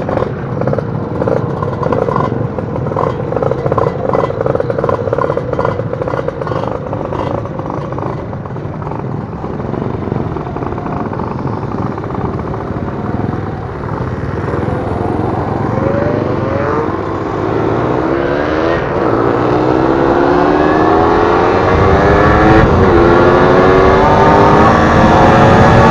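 Kawasaki KR150 two-stroke single-cylinder motorcycle engine running on the road. From about halfway it accelerates, rising in pitch several times as it shifts up through the gears, with one brief drop, and gets louder toward the end.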